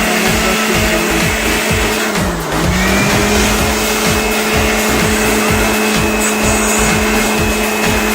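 Electric air blower running steadily, blowing dust out of a graphics card; its motor pitch sags briefly about two and a half seconds in, then recovers.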